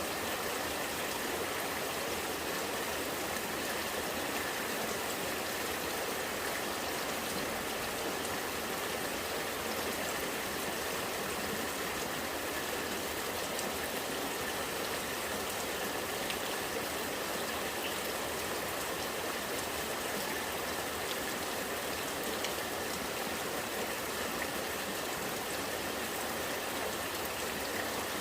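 Rainwater running and gurgling steadily, with rain falling.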